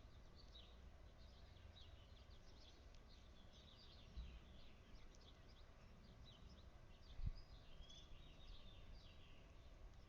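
Small songbirds chirping faintly with many short, quick calls over a low outdoor background hum, with two brief low bumps, about four seconds and seven seconds in, the second the loudest sound.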